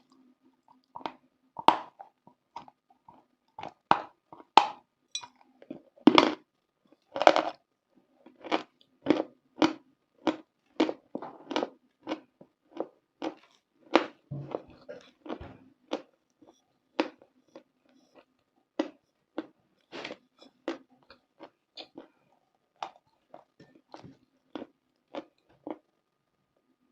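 Close-up ASMR chewing of a crunchy, brittle edible chalk or clay, a run of sharp crunches a bit more than one a second, with a few louder bites in the first several seconds.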